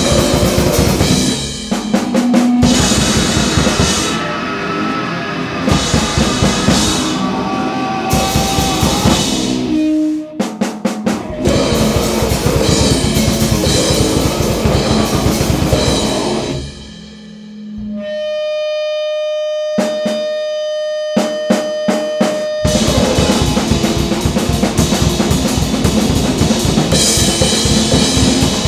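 Grindcore/noisecore band playing flat out: very fast drumming under distorted guitar noise. Around two-thirds through, the band drops to a single steady held tone with a few isolated drum hits, then crashes back in at full speed.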